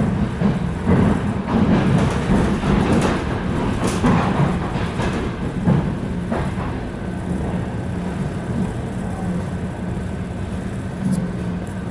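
ED4M electric multiple unit running along the line, heard from inside the passenger car: a steady rumble of wheels and running gear. Louder and rougher with rattles over the first half, then steadier.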